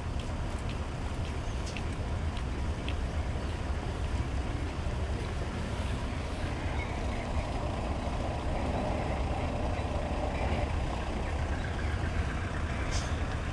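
Large diesel truck engine running at idle, a steady low rumble, with a faint mid-pitched hum joining in midway.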